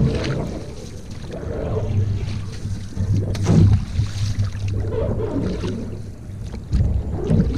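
Paddling a canoe: water splashing and sloshing around the paddle and hull, with a few louder surges, over a low wind rumble on the microphone.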